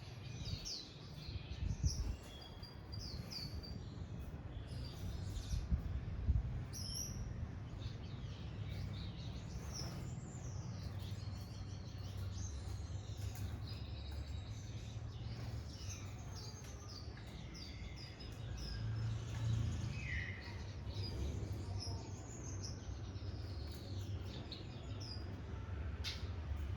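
Many small aviary birds, mostly finches, chirping and calling over one another in short high chirps and trills, over a steady low rumble.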